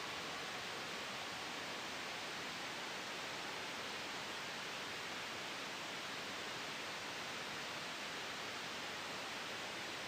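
Steady white noise with a gentle wind sound blended in: an even hiss, strongest in the upper range, with no changes in level.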